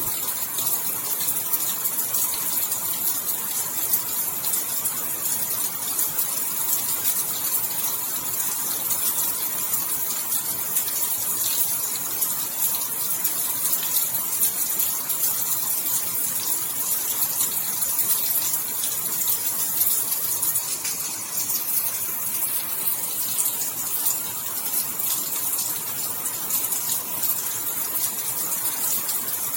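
Steady rain: a dense patter of many small drops over a constant hiss, holding the same strength throughout.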